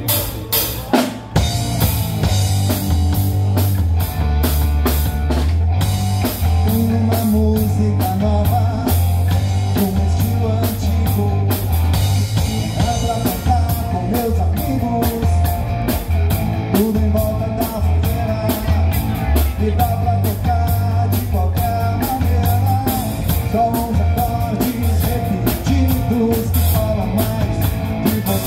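Live rock band playing: drum kit keeping a steady beat over a bass line, with guitar.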